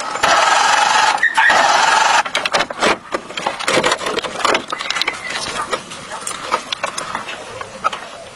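A power tool runs loudly and steadily, then cuts off about two seconds in. Scattered clicks and knocks of parts being handled follow.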